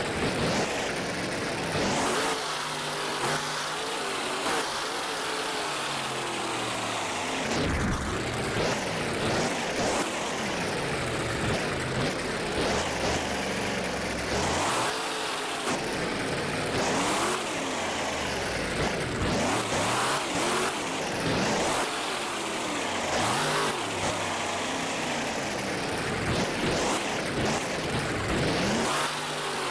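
Big truck engine revving hard over and over, its pitch rising and falling every second or two during a freestyle run.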